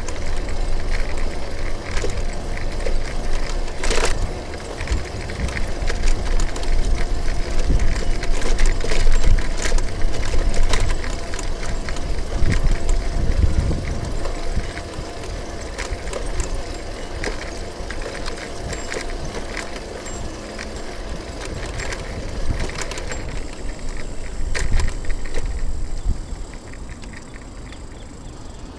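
Riding a city bicycle: steady road and wind noise with frequent clicks and rattles from the bike, growing quieter over the last few seconds.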